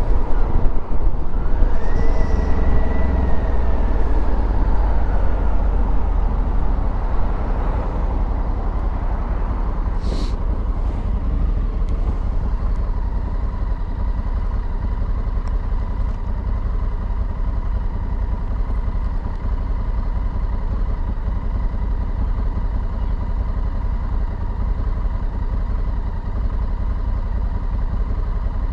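Honda Africa Twin Adventure Sports parallel-twin engine under way with heavy wind rumble, heard through a helmet-mounted lavalier microphone. The engine note climbs about a second in, then eases off and settles into a steady cruising tone.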